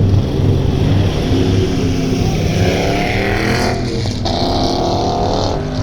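Race-prepared pickup truck's engine running hard on an autocross course, pitch rising as it accelerates, with a falling whoosh around the middle as it passes.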